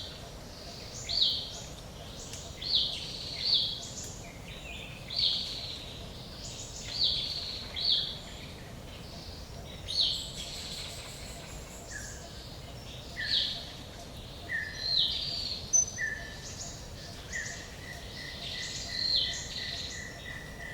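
Forest ambience: a bird repeats a short, high call every second or two over a steady hiss of background noise. Late on, a fast, even run of short notes joins in and carries on.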